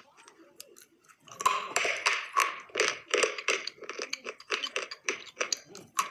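Dried edible clay snacks being chewed with crisp crunches. Faint for about the first second, then a steady run of crunches, about three a second.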